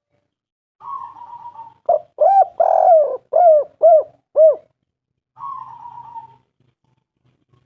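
Spotted dove cooing: a quieter rolling trill, then a run of about six loud coos, each rising and falling in pitch, and another rolling trill near the end.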